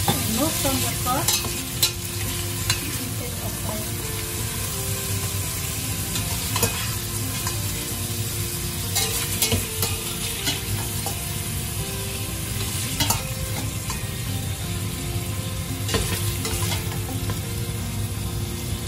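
Pork belly pieces sizzling steadily as they fry in hot oil in a pot, with scattered clicks and scrapes of a utensil stirring and turning them.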